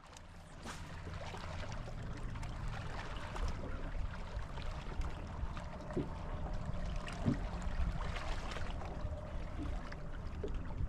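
Water lapping and splashing with small irregular splashes over a steady low rumble.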